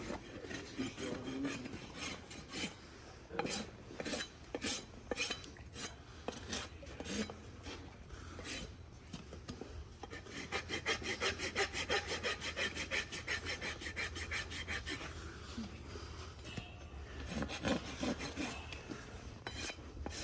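Farrier's rasp filing a hard, dry, overgrown horse hoof. It makes separate scraping strokes at first, then a quick, even run of about seven strokes a second midway, then slows to separate strokes again.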